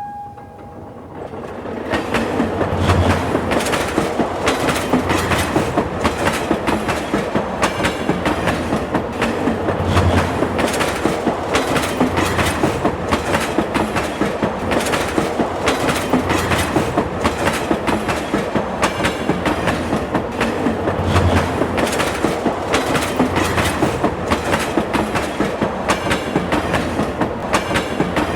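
Train running past with its wheels clacking rapidly over the rail joints. The clatter builds over the first two seconds, then goes on steadily.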